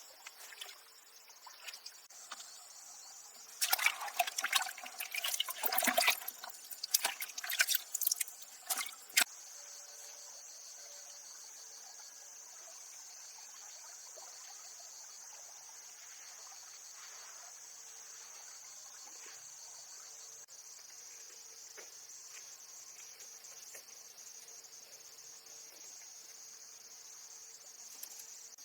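Crickets chirring steadily. From about four to nine seconds in there is a loud, irregular stretch of water splashing and pouring.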